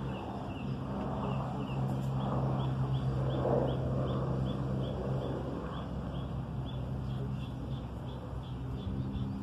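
A small bird chirping over and over, about two short, slightly falling chirps a second, over a steady low hum and faint, unintelligible murmured speech.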